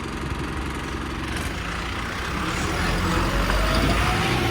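A bus's diesel engine growing louder as the bus pulls past, with a whine that rises steadily in pitch from about halfway through as it accelerates.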